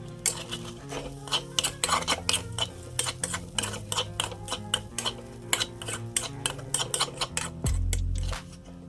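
A metal spatula clanking and scraping against a pan while stir-frying egg fried rice, in quick irregular strikes, with background music underneath.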